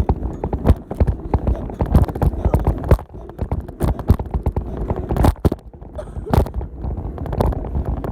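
Bicycle and its handlebar-mounted camera rattling and knocking over bumps while riding, irregular sharp clacks several times a second over a low steady rumble.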